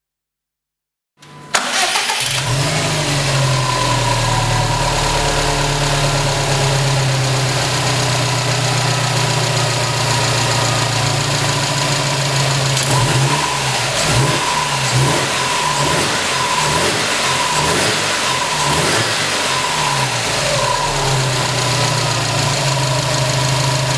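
Subaru S208's turbocharged 2.0-litre flat-four engine starting about a second in and settling into a steady idle. Through the middle stretch it is revved in a series of short throttle blips, then it returns to idle.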